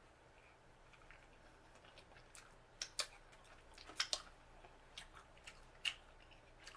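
Quiet eating and shell-handling sounds from a seafood boil: a scattering of sharp, short clicks and cracks, spaced irregularly and clustered a few seconds in.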